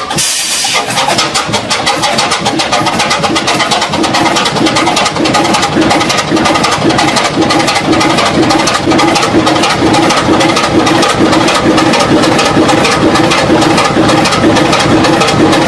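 An engine running loud and steady with rapid, even firing pulses, after a short hiss right at the start.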